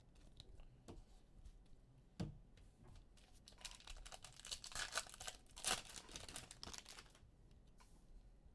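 Faint crinkling and rustling of packaging as trading cards are handled. A couple of light taps come in the first seconds, and the crinkling is densest in the middle.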